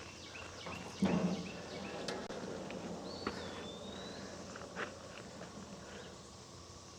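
Quiet outdoor background: insects and birds chirping in short repeated notes, with one whistled bird note a little past three seconds. There are a few soft knocks and footsteps, the largest about a second in.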